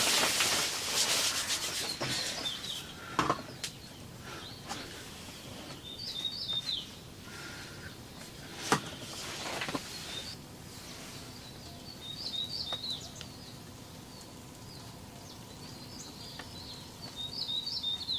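Small birds chirping in short clusters of high notes, over intermittent rubbing or scraping noises and a couple of sharp knocks.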